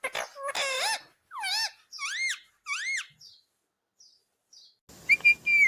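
Indian ringneck parrot calling: a run of about six short squawky calls that each rise and fall in pitch, then a pause, then clicks and a higher, held call near the end.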